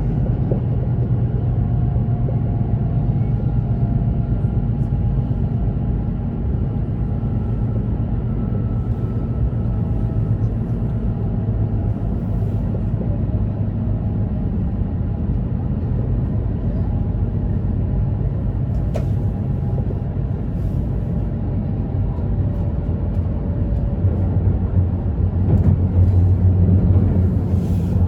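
Cabin noise of an E2-series Shinkansen train under way: a steady low rumble with faint whining tones that shift slowly in pitch, getting a little louder near the end.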